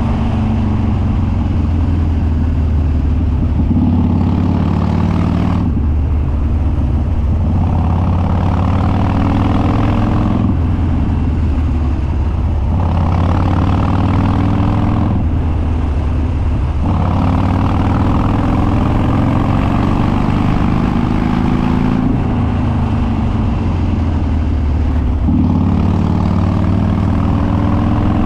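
Harley-Davidson Dyna Street Bob Twin Cam V-twin with unbaffled straight dual exhaust and open air filter, running loud under way. The throttle repeatedly opens and closes every few seconds, the engine note rising as it pulls, then easing off.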